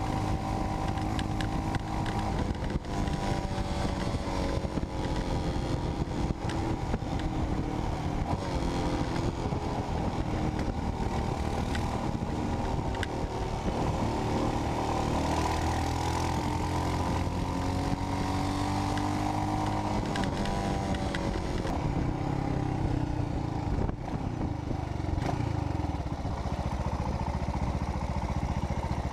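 Royal Enfield Himalayan's single-cylinder engine heard through a Red Rooster aftermarket exhaust end can while riding, the engine note rising and falling repeatedly as the revs climb and drop through the gears.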